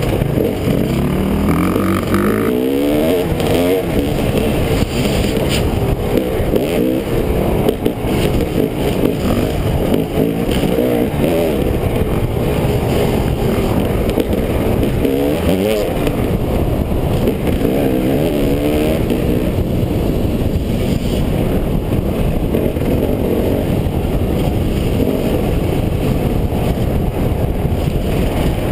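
Dirt bike engine running under way, the revs rising and dropping several times as the rider accelerates and shifts through the gears.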